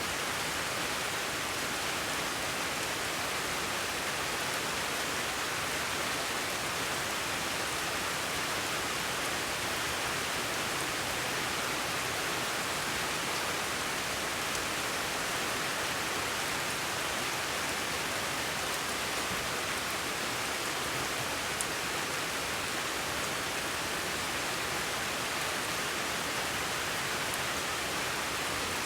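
A continuous, steady hiss of even noise with no change in level, carrying a few faint ticks.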